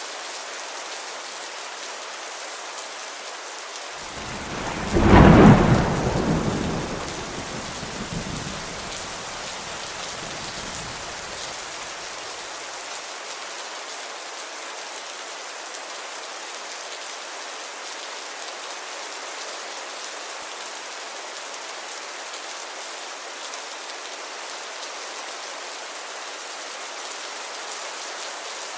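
Steady rain falling, with one thunderclap about five seconds in whose low rumble dies away over the next several seconds.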